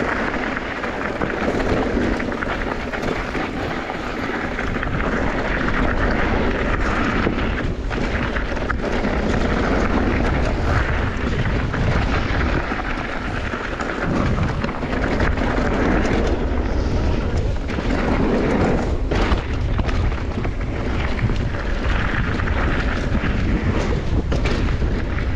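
Mountain bike descending a trail: wind buffeting the camera microphone over a continuous rumble of tyres on dirt, with short knocks and rattles from the bike.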